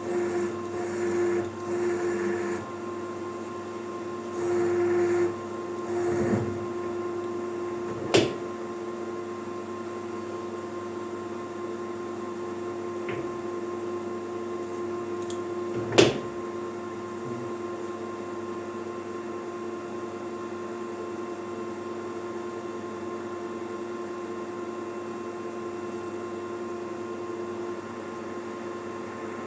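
Emco Maximat metal lathe running steadily in its slowest gear, a constant motor and gearbox hum. Uneven, louder stretches come in the first seven seconds, and sharp clicks come about 8 and 16 seconds in.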